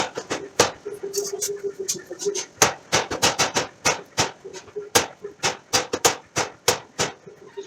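Hammer blows on steel: sharp, irregular strikes, about two to three a second, sometimes in quick clusters.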